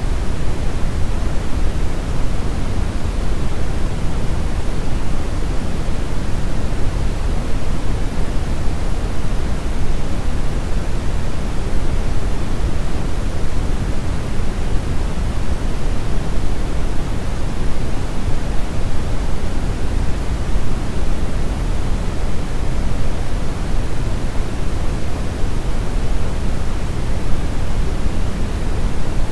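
Brown noise: a steady, even rumbling hiss, heaviest in the low end and thinning toward the highs, with no changes or events.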